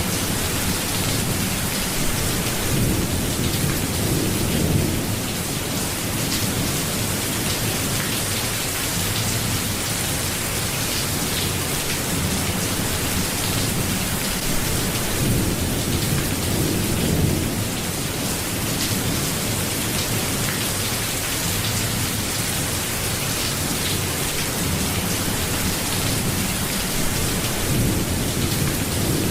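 Steady rain falling, with low rumbles of thunder swelling up three times.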